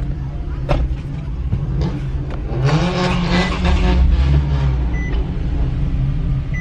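Car engine running, revved once about two and a half seconds in, holding for about a second before dropping back.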